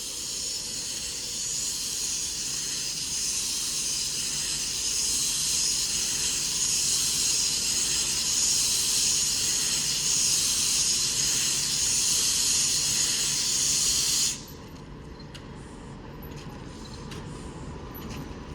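A Class 390 Pendolino electric train standing at the platform gives off a loud, steady hissing spray that swells at first, then cuts off suddenly about fourteen seconds in.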